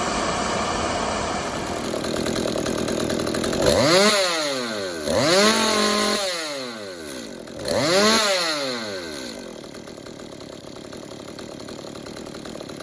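Stihl MS 192T top-handle chainsaw's two-stroke engine running and revved up three times, each rev sweeping up and falling back, the second held briefly at high speed. It then settles to a quieter steady idle.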